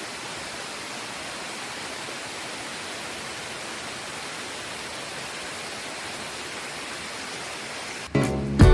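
Steady, even rush of water from a small waterfall on a forested slope. About eight seconds in, acoustic guitar music starts.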